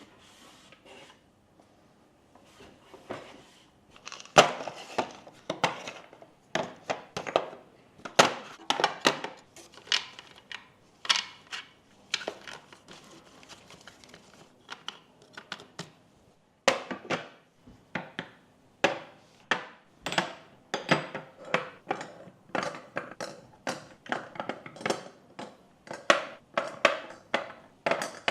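Kitchenware being handled: a quick, irregular run of knocks and clinks with a slight ring. It is sparse at first, grows busy about four seconds in, and pauses briefly around the middle.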